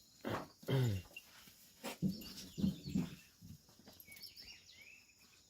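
Sheep bleating in several short calls, with birds chirping faintly in the background.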